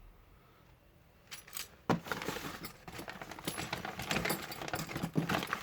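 Handling a box of bagged car parts: a sharp knock about two seconds in, then continuous rustling of plastic bags with small metal parts jingling and clinking against each other.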